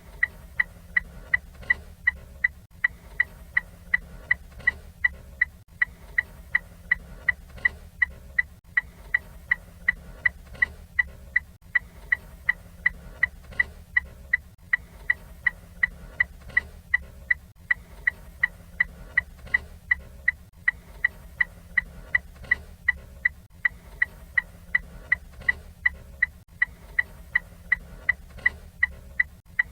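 Ford Fiesta turn signal indicator ticking at an even, steady rate of a few ticks a second, each tick short and sharp, over a low steady hum.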